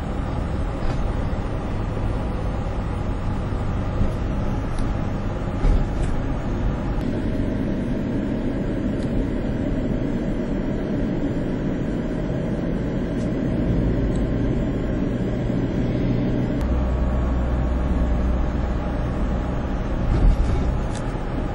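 Steady road traffic noise on a highway: vehicle engines and tyres with a low rumble. A deeper engine drone grows stronger about two-thirds of the way in, with a couple of brief knocks.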